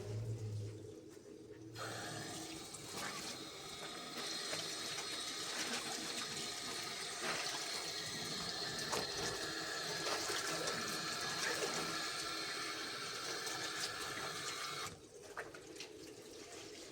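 Water running steadily, as from an opened tap, starting about two seconds in and shut off sharply near the end.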